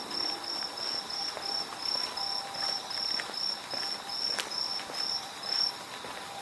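Cricket chirping in a steady pulse, about three high chirps a second, stopping shortly before the end, over a steady trill of other autumn insects. One sharp click comes about four seconds in.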